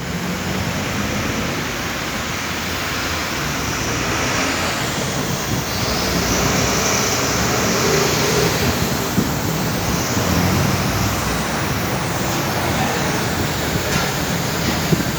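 Car being driven, with steady engine and road noise and an occasional light knock. The car has a noisy constant-velocity (CV) joint and jerks as it drives.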